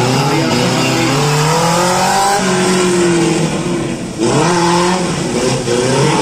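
Car engine revving hard on a slalom run, its pitch rising and falling with the throttle. It drops off briefly about four seconds in, then climbs again.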